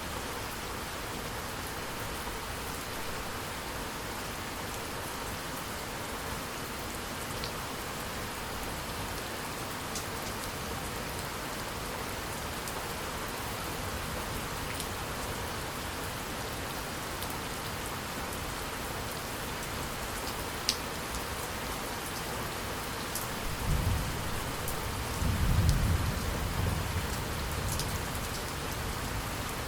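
Steady rain falling, with the ticks of single drops landing close by. Near the end, thunder rumbles low for a few seconds.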